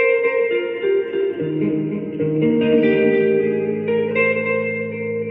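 Electric guitar, a Fender Player Telecaster through a Fender Champion 20 amp set heavy on reverb and delay, playing a melody line whose notes ring on over one another. Lower notes come in about a second and a half in.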